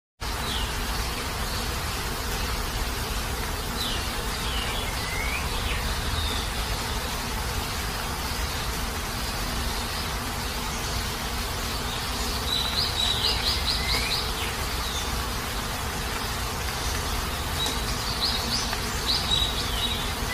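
Steady heavy rain. Short high chirps come through it now and then, with a quick run of repeated notes about midway and again near the end.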